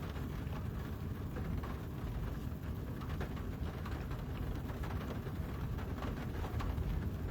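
Heard from inside a closed car cabin: steady low rumble with a fine patter of heavy thunderstorm rain on the car.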